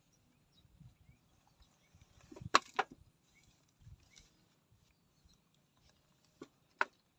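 Air rifle shots: two pairs of sharp cracks, each pair about a third of a second apart, the loudest about two and a half seconds in and a softer pair near the end.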